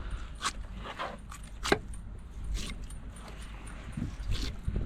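Short scrapes and clicks of a curved fillet knife working over a redfish's rib bones and backbone as the fillet is cut free. There are about five separate strokes, the sharpest a little under two seconds in, over a low steady rumble.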